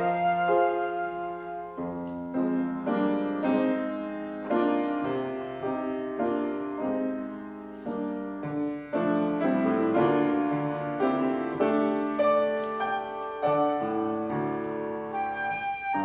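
Piano playing a slow classical-style piece, with a flute joining near the end.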